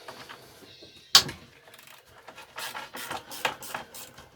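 A sharp metallic knock about a second in, then a run of short metal clinks and scrapes from hand tools and small parts being handled on a lawn mower engine.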